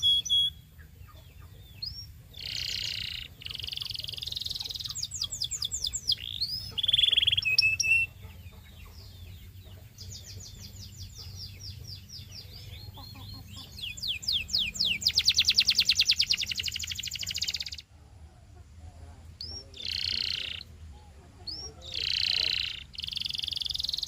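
Domestic canary singing a long song of trills and rolling phrases. Each run of rapidly repeated notes gives way to the next after a short pause, and the fastest, loudest trill comes from about two-thirds of the way through until a brief gap. A faint steady low hum runs underneath.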